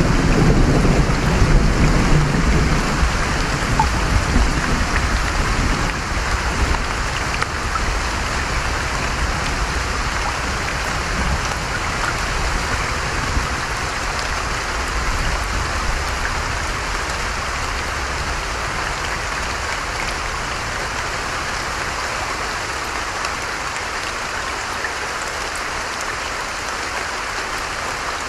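Steady rushing of rain and stream water, with a low roll of thunder dying away over the first few seconds.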